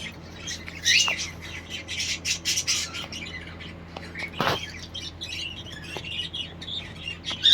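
A flock of caged pet parrots chirping and squawking at their feed, with dense short high chirps, a louder squawk about a second in and a sharp falling call past the middle, over a faint steady hum.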